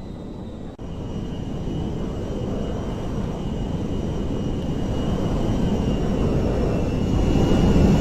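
Jet airliner engine noise: a dense rumble with a thin steady high whine, growing louder. A brief dropout about a second in, like a cut from one clip to the next.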